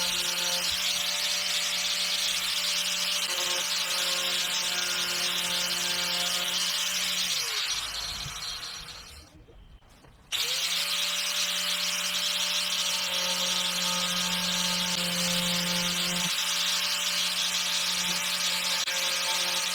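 A small electric power tool running steadily with a harsh, gritty edge. It is switched off about seven seconds in and spins down, then is switched on again about three seconds later and runs on.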